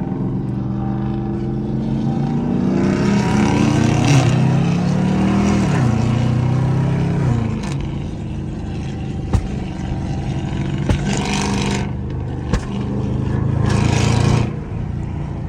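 Loud car engine and exhaust accelerating, the engine note climbing and dropping back in the first half, then a steady drone with two surges of rushing noise and a few sharp cracks.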